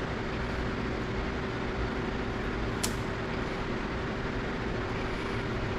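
Heat gun blowing steadily with an even rush of air and a steady motor hum, used to soften the adhesive tape behind a motorcycle tank badge. A single sharp click about three seconds in.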